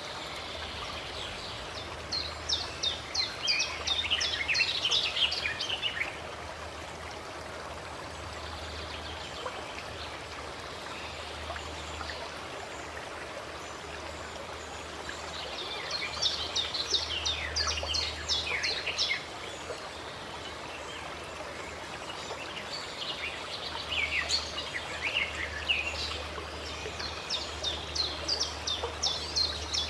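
Water running steadily, with birds singing rapid high chirps in three bouts: a few seconds in, again around the middle, and through the last seven seconds.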